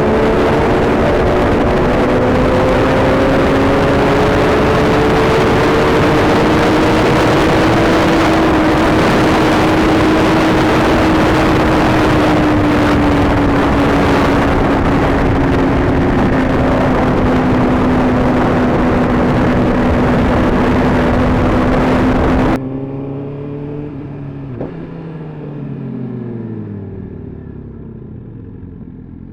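Sport motorcycle riding at speed, its engine holding a steady tone that slowly rises and then eases, under heavy wind rush. About 22 seconds in it cuts abruptly to a much quieter engine whose pitch dips and swings up and down.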